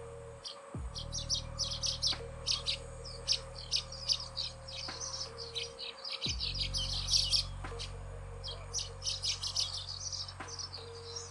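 Asian golden weavers chattering: fast runs of short, high notes with brief pauses, over a steady low hum that drops out twice.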